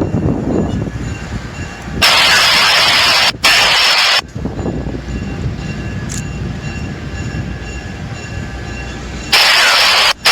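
Excursion train hauled by an EMD GP9 diesel locomotive running past, a steady rumble of engine and rail noise. Twice it is drowned by a loud rush of hiss that starts and stops abruptly, about two seconds in and again near the end.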